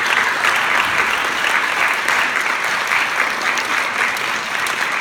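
Audience applauding steadily, fading slowly toward the end.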